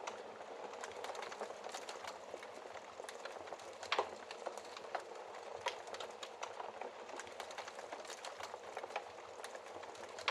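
Wood fire burning in a fireplace: a steady hiss of flame with constant crackling and scattered sharp pops, the loudest about four seconds in.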